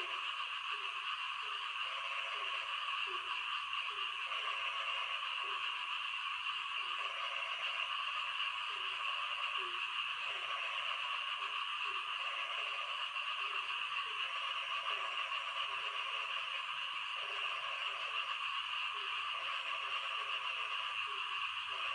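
Frogs croaking in short, low calls repeating about every half second, over a steady hiss of rain.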